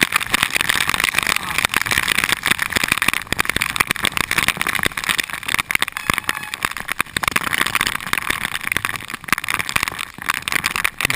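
Heavy typhoon rain hitting a GoPro Hero2 camera, a dense, steady crackle of countless drops striking the camera.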